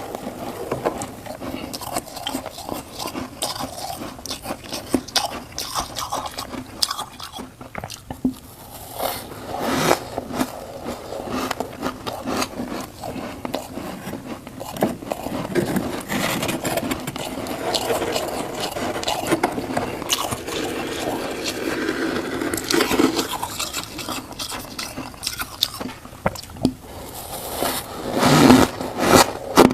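Crunchy humidifier frost being bitten and chewed close to the microphone: a steady stream of crisp, irregular crunches, with a louder burst of crunching near the end.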